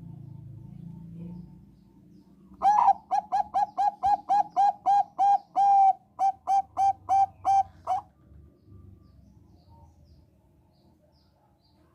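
Zebra dove of the Thai 'Bangkok' strain singing: a quick, even run of about eighteen short staccato coos, roughly three a second, starting a couple of seconds in and lasting about five seconds.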